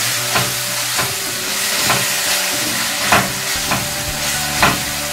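Wet onion-tomato masala sizzling in a kadai, with a slotted spatula stirring and scraping through it and knocking against the pan about six times.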